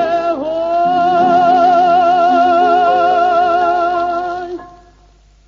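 Song ending: a high sung voice holds one long final note with wide vibrato over steady accompaniment chords. It stops about four and a half seconds in, and the music fades away.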